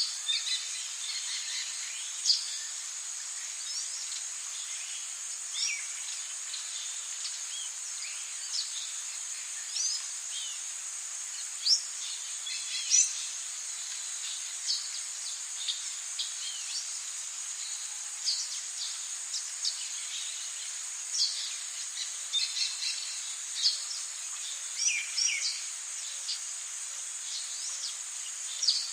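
Rainforest ambience: a steady high-pitched drone of insects, with many short bird chirps and quick whistled notes scattered throughout.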